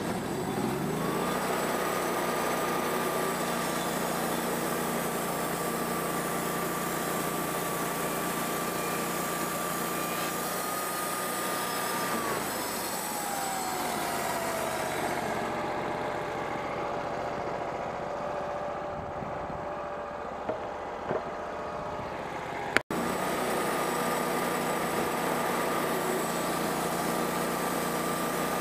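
Woodmizer band sawmill running: it comes up to speed in the first second to a steady high whine. About twelve seconds in, the pitch glides down and settles lower. After an abrupt break near the end, the higher whine is back.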